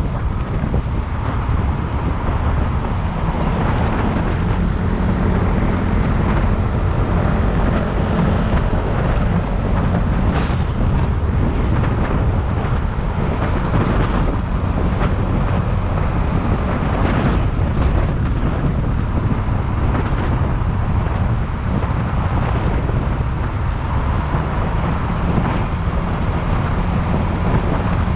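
Motorcycle engine running under way, mixed with steady wind and road rumble on the microphone.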